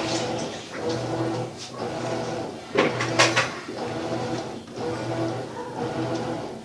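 Maytag top-load washing machine agitating. Its motor hums in strokes that break off and restart about once a second, with two sharp clacks about three seconds in.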